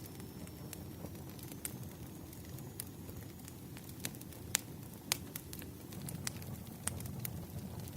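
Wood fire crackling: a low steady rumble of burning logs with irregular sharp pops, the loudest two close together about halfway through. A faint thin high whistle is heard in the first couple of seconds.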